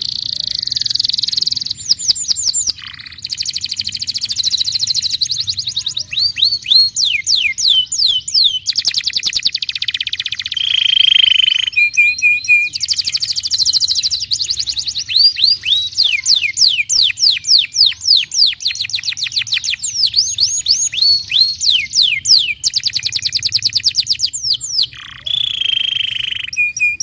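Domestic canary singing: rapid trills of repeated falling notes that change from one phrase to the next every second or two, with a few short steady whistled notes in between.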